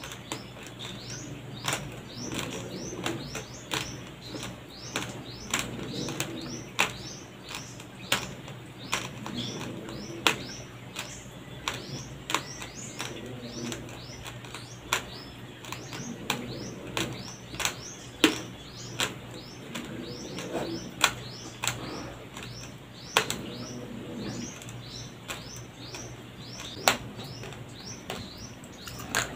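Raw, uncooked white rice grains crunched between the teeth while chewing: sharp, irregular crunches, about one or two a second, some louder than others, over a steady low hum.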